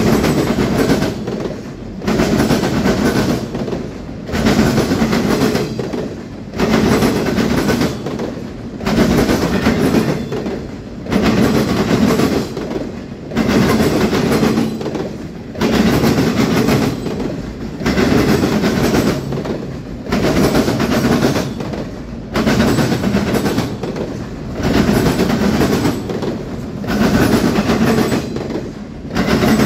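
Freight train cars rolling past, their wheels clattering over the rail joints with a regular rise and dip about every two seconds as each car goes by at a steady speed.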